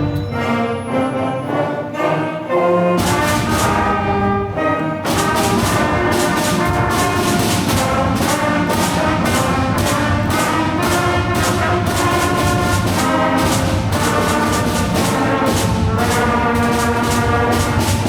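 A student band playing: a brass section over a steady drum beat.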